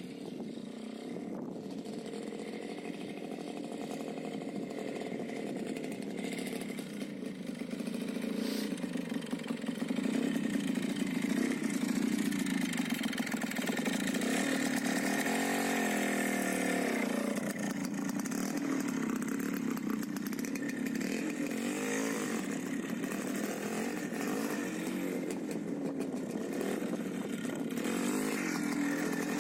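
Minsk motorcycle's single-cylinder two-stroke engine running with a buzzy note, growing louder over the first ten seconds and revving up and down a few times after the midpoint.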